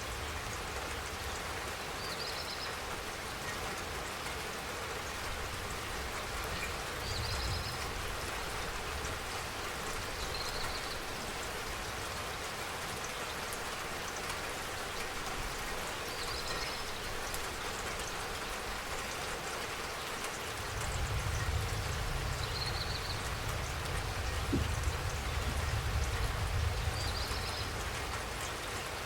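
Steady rain falling, an even patter and hiss, with a faint short high chirp every few seconds. A low rumble swells in about two-thirds of the way through and fades near the end.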